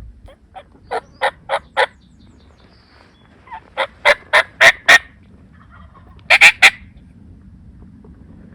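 Wild turkey gobblers, Rio Grande turkeys, gobbling close by. There are three loud gobbles, each a quick rattling run of notes: one about a second in, one around four to five seconds, and a short one near six and a half seconds.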